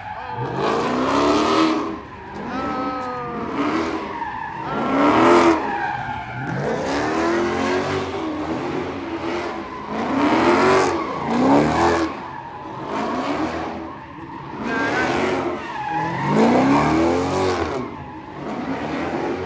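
Car engines revving in repeated surges, the pitch climbing and dropping every second or two, with tyres squealing and skidding.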